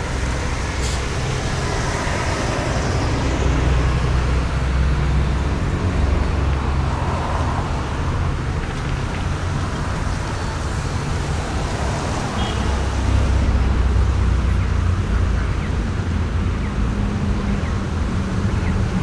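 City street traffic ambience: a continuous low rumble of cars, buses and trucks driving past with their engines running, and a sharp click about a second in.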